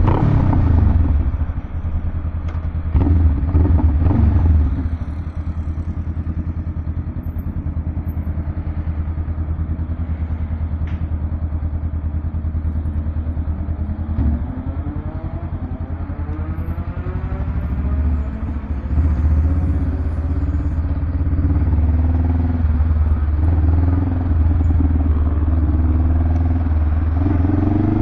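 Honda Rebel 500's parallel-twin engine running through a Vance & Hines exhaust. It revs briefly about three seconds in, settles to steady running at low revs, then gets louder from about two-thirds of the way through.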